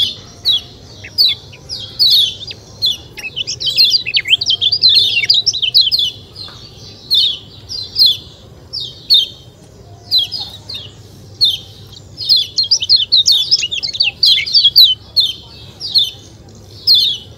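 Kecial kuning, a small white-eye songbird, chirping fast: a dense run of short, high 'ciak ciak' calls, each dropping quickly in pitch, with a few brief pauses.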